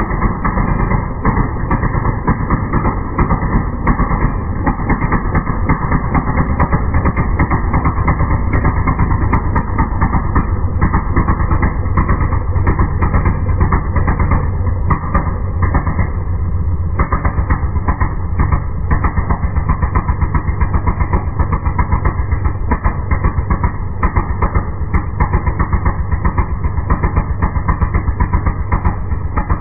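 Velosolex Micron's small single-cylinder two-stroke engine running steadily at idle, a fast, even putter. Its original condenser has been replaced with an electronic one.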